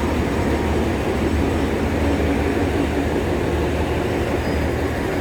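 Passenger train running along the track: a steady, loud low rumble of the train and its wheels on the rails.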